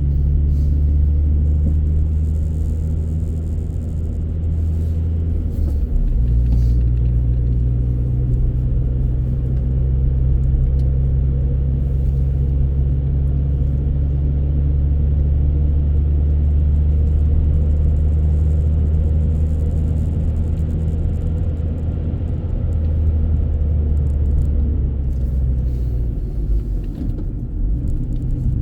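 Steady low rumble of a car driving, its deep drone shifting in pitch a few times.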